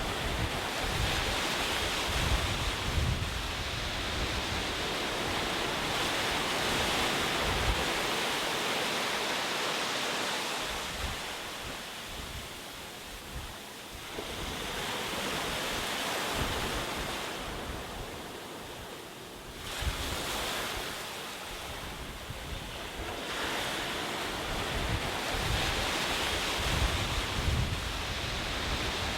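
Ocean surf: waves breaking and washing in, the rush swelling and easing every few seconds, with quieter lulls about halfway through. Gusts of wind rumble on the microphone now and then.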